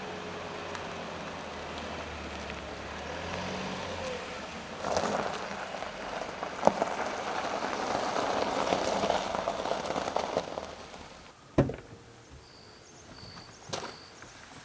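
Car moving slowly, its tyre and road noise swelling for several seconds and then fading away. A few short, high chirps come near the end.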